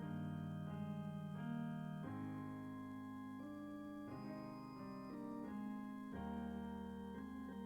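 Instrumental keyboard music: slow, sustained chords that change every second or so.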